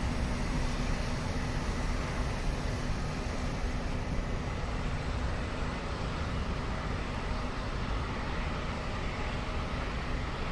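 Jet aircraft engines heard as a steady rumble with a faint steady hum, easing slightly in level.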